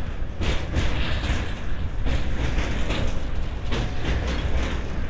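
Passenger train running on the track, heard from on board: a steady low rumble with irregular clatter and knocks.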